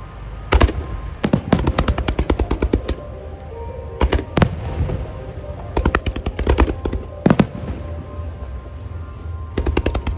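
Starmine fireworks bursting to music: loud sharp bangs about half a second, four seconds and seven seconds in, with quick rattling runs of smaller reports between them, over music playing throughout.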